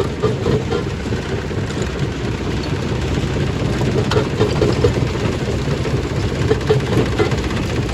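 Stone crushing machine running under load, a steady heavy rumble with scattered sharp knocks of rock being broken.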